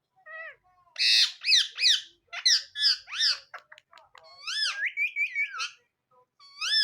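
Male Indian ringneck parrot calling: a rapid series of high-pitched calls, each rising and falling in pitch, with a brief pause near the end.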